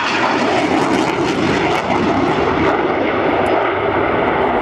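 Steady, loud rushing jet noise from a Spanish Air Force EF-18 Hornet's twin General Electric engines as the fighter flies a display manoeuvre.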